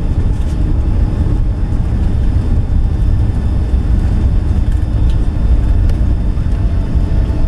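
Steady low rumble inside the cabin of a Boeing 757-200 after landing: engine and airframe noise as the jet rolls along the ground.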